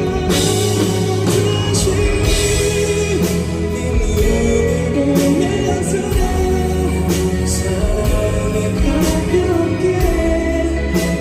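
Live pop band performance: a male vocalist sings a melody over bass and sustained chords, with drums striking steadily throughout.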